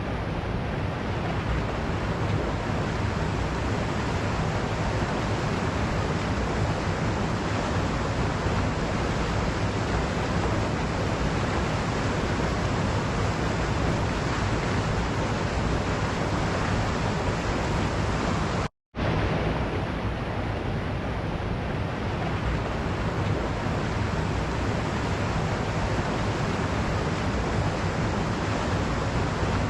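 Waterfall: a steady, unbroken rush of falling water. About two-thirds of the way through it cuts out to silence for a fraction of a second, then resumes.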